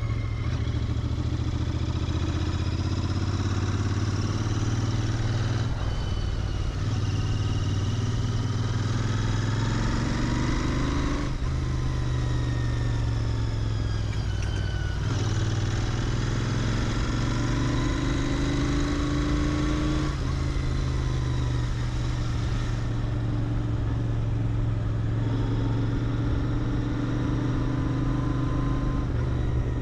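Royal Enfield Interceptor 650's parallel-twin engine running through its stock exhaust on the move, the pitch rising as it pulls through the gears and dropping briefly at each shift, several times over.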